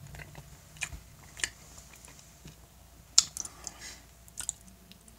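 Close-up chewing of teriyaki beef: a scatter of short, wet mouth clicks and smacks, the loudest a little past halfway.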